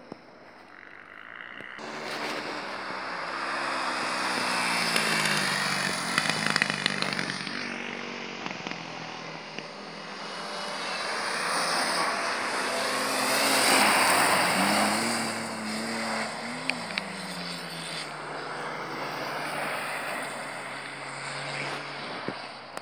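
Rally cars driven on an ice track: their engines rev up and down through the gears as they slide past, under a rushing hiss that swells twice, about five and fourteen seconds in.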